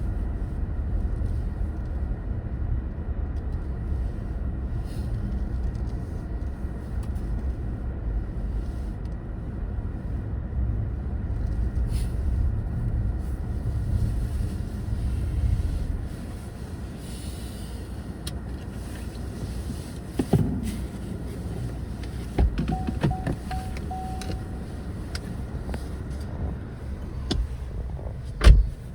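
Car driving on a snowy winter road, heard from inside the cabin: a steady low rumble of tyres and engine that drops quieter about halfway through. A few knocks follow, the loudest near the end, along with a short steady tone.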